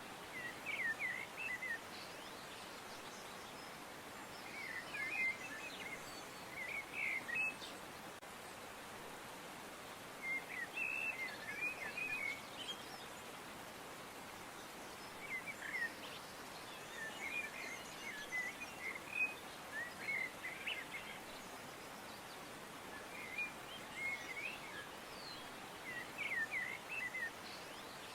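Small birds chirping in short bouts of quick, high chirps that recur every few seconds, over a steady faint hiss.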